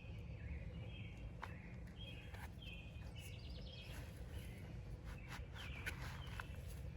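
Small birds chirping off and on in short high notes over a steady low outdoor rumble, with a few faint ticks.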